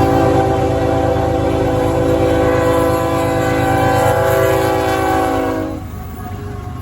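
Amtrak GE P42DC diesel locomotive's air horn sounding one long held chord of several notes, cutting off about six seconds in, over the low rumble of the moving train.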